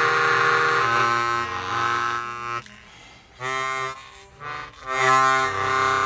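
Suzuki Sirius S48B bass chromatic harmonica playing low sustained notes through a Boss MD500 effects pedal and an amp's reverb. There are several held notes, with a short break a little past the middle.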